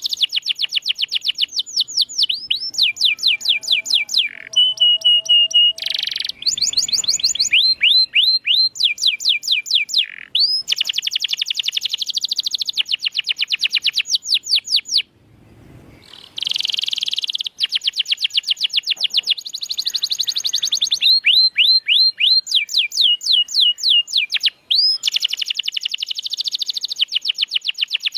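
Domestic canary singing rapid trills: fast runs of repeated sweeping notes that switch to a new trill every second or two, with a brief pause about fifteen seconds in.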